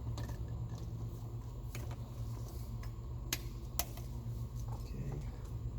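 A few light clicks and clatters of engine-bay parts being handled as hoses are refitted, the sharpest two a little past halfway, over a steady low hum.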